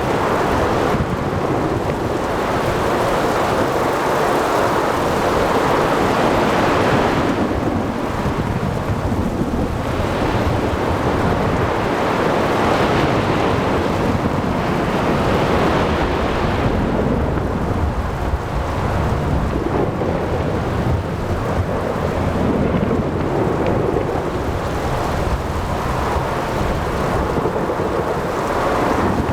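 Ocean thunderstorm ambience: steady heavy rain and wind over crashing sea waves, with low thunder rumbling underneath. The rush swells and eases every few seconds.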